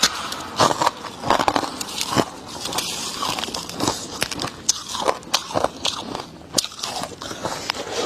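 Biting and chewing a chunk of freezer frost: irregular crisp crackles and crunches of the ice breaking up.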